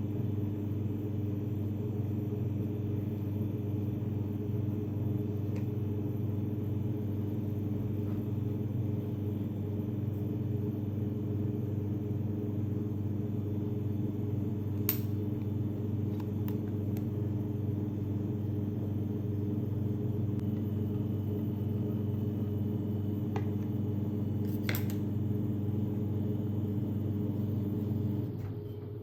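A steady low machine hum with a few faint clicks; the hum drops away near the end.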